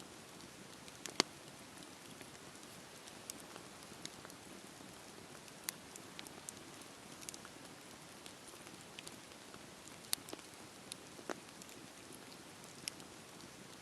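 Campfire burning: a steady soft hiss with irregular sharp crackles and pops from the wood, the loudest about a second in and again around ten seconds in.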